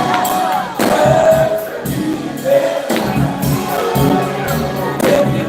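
Live gospel music: a group of voices singing with band accompaniment and a steady percussion beat.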